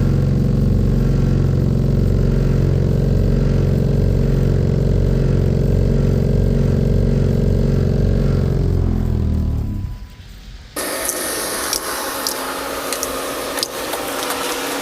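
An engine running steadily, then winding down in pitch and stopping about ten seconds in. A short quiet gap follows, then a steady rough noise with scattered clicks.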